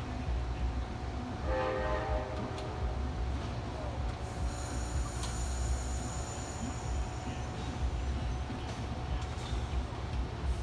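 Amtrak passenger train rumbling past at the station. Its locomotive horn sounds one short blast about a second and a half in. A thin high squeal rises over the rumble around the middle.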